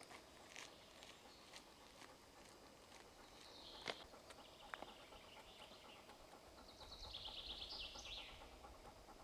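Faint songbird song: a quick high trill about three and a half seconds in, and a longer trilled phrase that falls in pitch about seven seconds in, with a few faint clicks.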